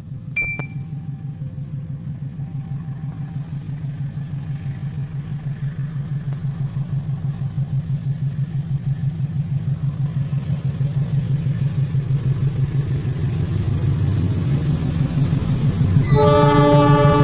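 KAI CC206 diesel-electric locomotive's engine throbbing with a steady pulse, growing gradually louder. Its horn starts sounding near the end.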